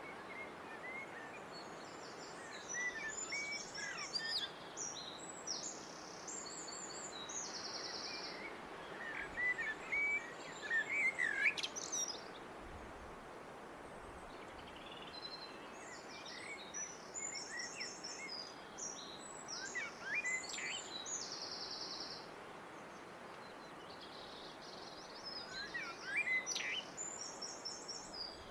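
A blackbird singing in separate phrases a few seconds apart. Each phrase is a low, fluty warble that breaks into high, squeaky twittering, over a steady background hiss.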